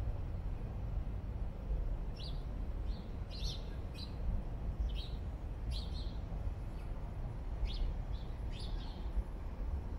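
A small bird chirping, about a dozen short, sharp chirps at uneven intervals from about two seconds in until near the end, over a steady low rumble.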